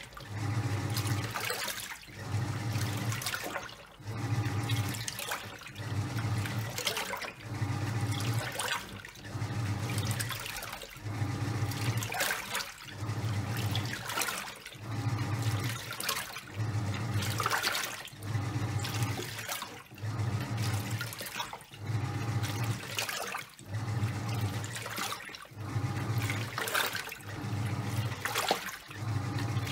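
Top-loading washing machine in its wash cycle: the motor hums in short strokes about once a second as the tub agitates back and forth, with water and towels sloshing.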